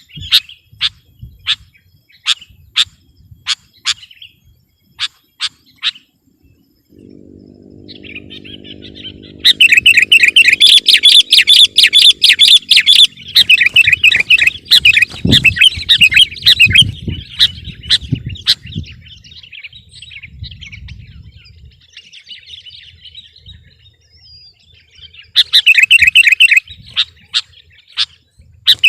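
Sooty-headed bulbul (kutilang) singing. It starts with sharp single chips about twice a second, then breaks into loud, rapid chattering song about ten seconds in, goes on to softer warbling, and gives another loud burst near the end.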